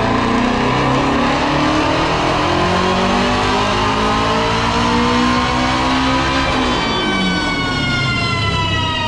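Twin-turbocharged Shelby GT350R's 5.2-litre flat-plane-crank V8 making a wide-open-throttle pull on a chassis dyno, revs climbing steadily for about six and a half seconds. Then the throttle closes and the revs fall away.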